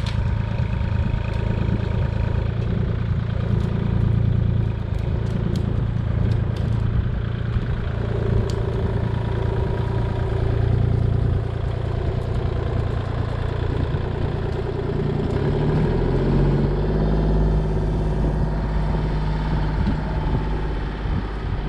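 Kubota 25-horsepower compact tractor's diesel engine running steadily under work, its note shifting lower about two-thirds of the way through.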